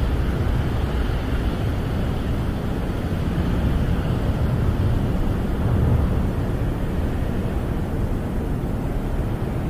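Snowstorm wind blowing against a camper, heard from inside: a steady, deep rushing noise that swells and eases slightly.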